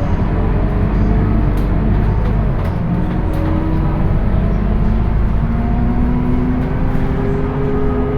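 Scania K230UB city bus's diesel engine running under way through its ZF automatic gearbox. The engine note climbs slowly from about halfway through as the bus accelerates in gear.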